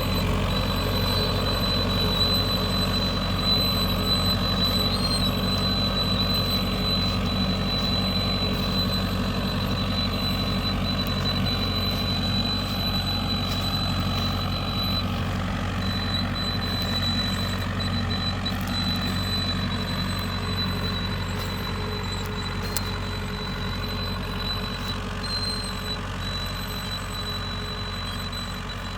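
Ford 6600 tractor's three-cylinder diesel engine running steadily while plowing, slowly getting quieter over the second half. A thin steady high whine runs alongside it.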